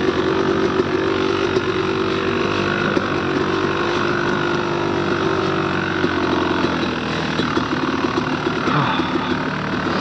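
Dirt bike engine running at low revs, steady, easing off about six seconds in.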